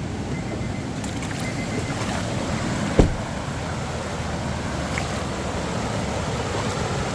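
Steady rushing of a rain-swollen creek running high and fast, with wind. A car's door-open chime beeps in the first two seconds, and a car door slams shut about three seconds in.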